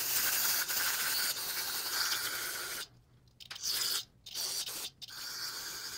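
Aerosol cleaner spraying onto a corroded brake caliper and into its piston bore. One long hissing spray lasts a little under three seconds, then it stops, and a few shorter bursts follow.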